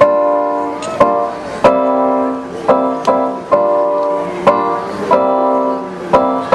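A band playing live music: chords struck in a steady rhythm, each starting sharply and fading a little before the next.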